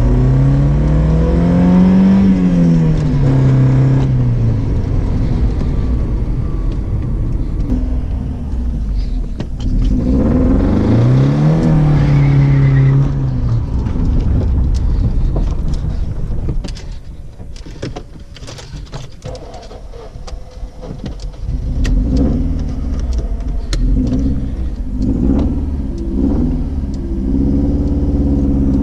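Mercedes-Benz W202's engine, wrecked by running without oil and with one piston missing rings, revved up and back down twice, then settling into rough, uneven running that sags in the middle; a misfiring engine running on only three cylinders.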